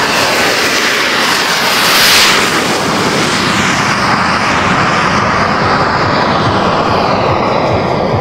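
Model jet's turbine engine passing by: a loud rushing roar with a high whine, loudest about two seconds in, after which the whine slowly falls in pitch as the jet moves away.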